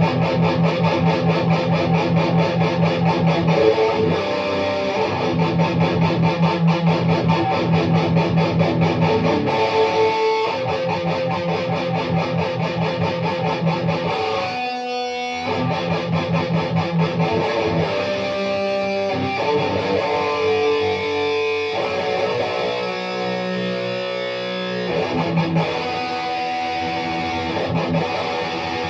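Electric guitar strumming chords and playing riffs.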